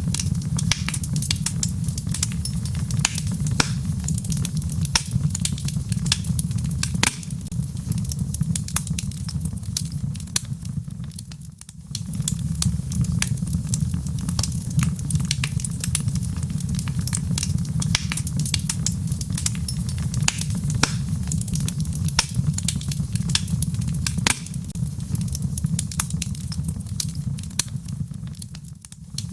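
Wood logs burning in a fireplace: a steady low rumble of flames with frequent sharp crackles and pops. The sound dips briefly twice, about a third of the way in and just before the end.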